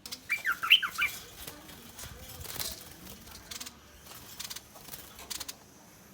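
A bulbul giving a quick cluster of sweeping scolding chirps in the first second, then several short harsh bursts: threat calls from a wild bird.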